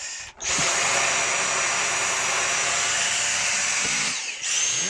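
Dyson V6 cordless stick vacuum switched on and running in the air, a steady rushing of air with a high motor whine. About four seconds in the motor drops briefly, then whines back up.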